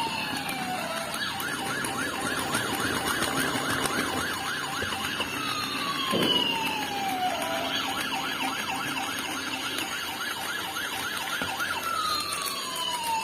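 Battery-operated toy emergency vehicle playing its electronic siren: a falling wail that repeats every six seconds or so, alternating with a fast warbling yelp. A brief knock about six seconds in.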